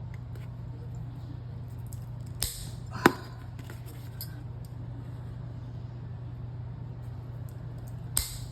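A hole punch snapping through layers of paper: two sharp clicks about half a second apart, the second louder with a short ring, over a steady low hum.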